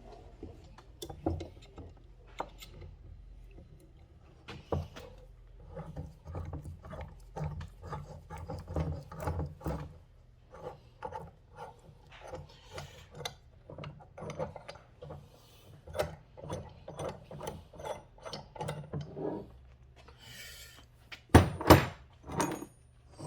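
Valve spring compressor on a Yamaha Warrior 350 cylinder head being wound back off a valve spring, a steady run of metal ratcheting clicks, a few a second. Near the end come a couple of sharp, louder metal clacks as the tool and parts are handled.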